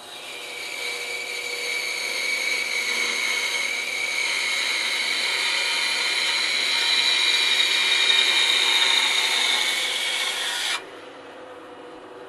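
Bandsaw blade cutting through a thick 4x4 wooden block: a steady, loud whining cut that builds over the first couple of seconds, then stops suddenly near the end, leaving only a quiet steady hum.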